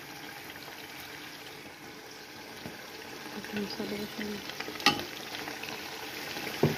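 Lamb chops sizzling in a frying pan while a wooden spatula stirs them, with two sharp knocks, about five seconds in and again near the end.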